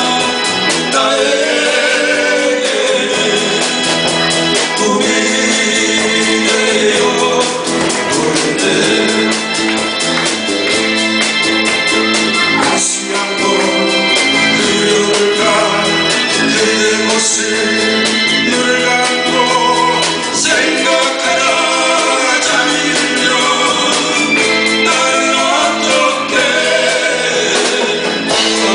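Live band performing a Korean 1970s–80s pop song: a singer's voice over electronic keyboard and band accompaniment.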